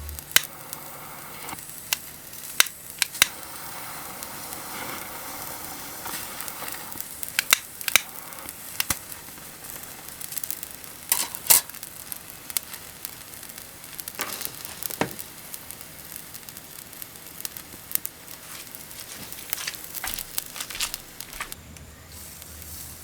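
Chicken-skin yakitori grilling over charcoal: a steady sizzle with frequent sharp pops and crackles.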